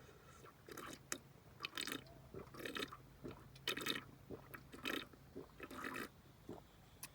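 A person eating soup up close: a string of wet slurping and chewing noises, about one a second.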